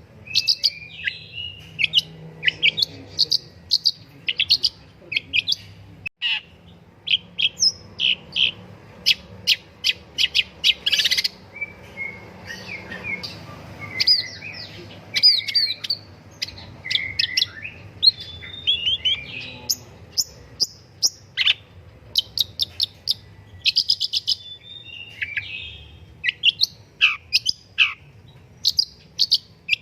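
Long-tailed shrike (pentet, or cendet) singing actively: a rapid, varied string of sharp chirps and short whistled notes, some sliding downward, over a faint low hum.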